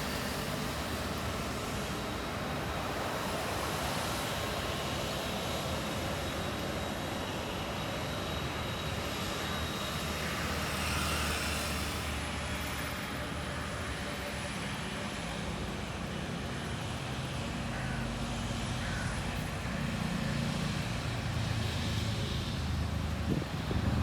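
Jet engines of an Airbus airliner running at low taxi thrust while it turns on the runway: a steady rushing hum with a faint high whine.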